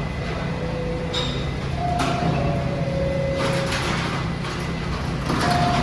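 New York City subway train in the station: a steady low hum with a few short squeals and a sharp clack about two seconds in.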